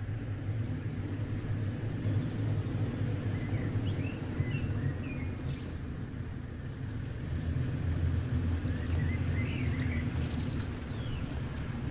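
Small birds chirping now and then over a steady low rumble, like a vehicle engine running, with faint high ticks.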